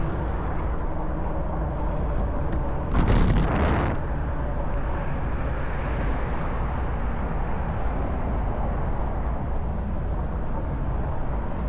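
Steady rumble of freeway traffic. A brief loud rush comes about three seconds in.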